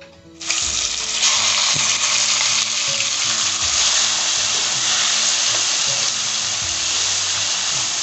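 Raw chicken pieces dropped into hot oil with chopped garlic and crushed chilli in a non-stick frying pan. A loud sizzle starts suddenly about half a second in and holds steady while the chicken is stirred with a wooden spatula.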